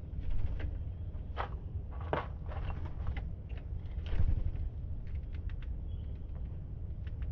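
Irregular short clicks and taps, a few louder than the rest, over a low steady rumble.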